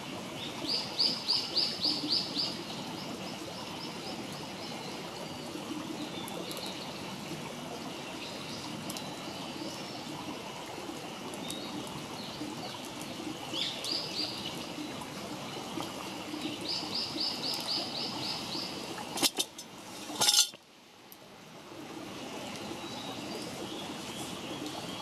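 A small songbird sings rapid trills of evenly repeated high notes three times over a steady background hiss, with faint crackling from a campfire. About 19 and 20 seconds in come two loud sharp knocks, after which the background dips briefly.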